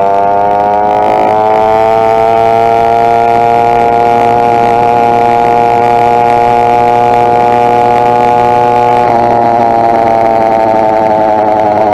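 Two-stroke motorized bicycle engine running under way, its pitch rising over the first couple of seconds and then holding steady, easing slightly near the end.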